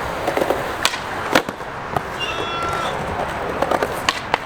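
Skateboard wheels rolling fast, a steady grinding hiss, with several sharp wooden clacks from the board.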